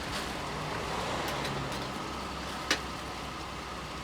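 Steady background of road traffic passing, with one sharp click about two and a half seconds in.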